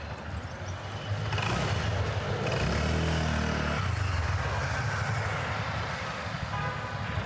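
A motor vehicle's engine passing close by on a city street, swelling about a second in, loudest around three seconds in, then fading into steady traffic noise.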